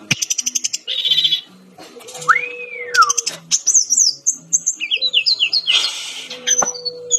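Brown-chested jungle flycatcher (Sikatan Rimba Dada Coklat) singing a fast, varied song. Rattling trills give way to a clear whistle that rises and falls about two seconds in, then a string of quick sliding notes and a short buzzy chatter near the end.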